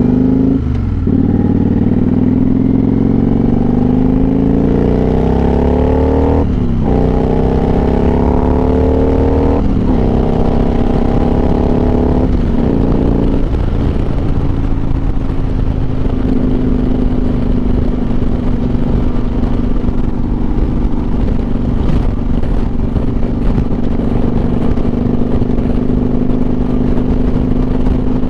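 Motorcycle engine accelerating hard, its pitch climbing and dropping back at each of about four upshifts in the first half. It then settles into a steady drone at a constant cruising speed.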